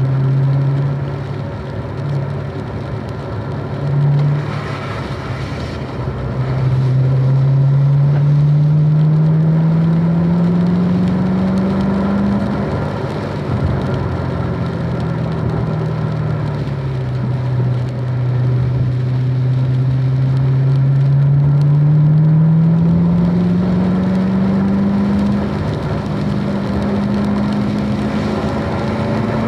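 Car engine at track speed, its pitch climbing slowly under acceleration for several seconds, falling back about halfway through, then climbing again and holding high near the end.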